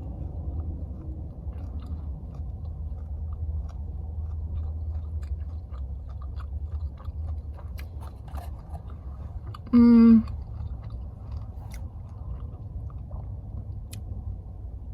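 A person chewing tough dried biltong, with small crunching clicks over a steady low hum. About ten seconds in comes one short, loud pitched tone.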